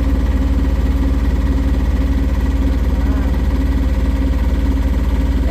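The catamaran's engine running steadily under way: an even, low drone with a fast regular pulse and a steady hum over it.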